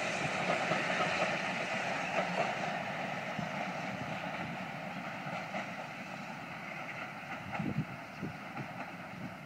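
Steam train running past and receding, its steady rumble and clatter slowly fading, with a few soft knocks near the end.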